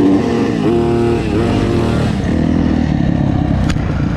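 Kawasaki KX450F single-cylinder four-stroke motocross engine revving, its pitch dropping and climbing again a couple of times as the throttle is rolled off and back on, then settling into lower, rougher running for the second half, with a sharp click near the end.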